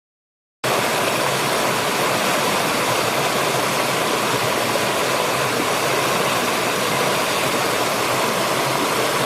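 Steady rush of a waterfall's falling water, cutting in abruptly about half a second in after dead silence.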